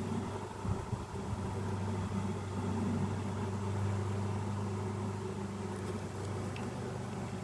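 Honeybees humming steadily around an open hive, a low even drone of many wings.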